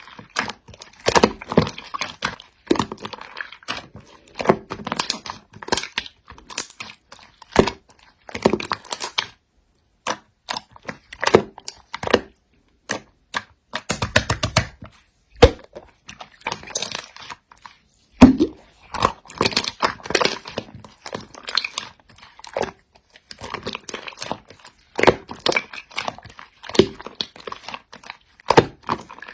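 Slime being squeezed, pressed and stretched by hand, giving irregular crackles, clicks and small pops, with a couple of brief pauses.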